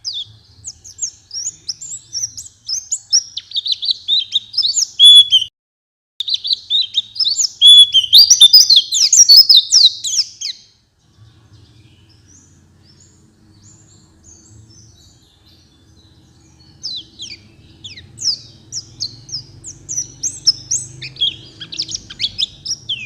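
White-eye (pleci) singing a fast, high twittering song in long runs of chirps. The song breaks off for about six seconds in the middle, leaving only a faint low hum, then starts again.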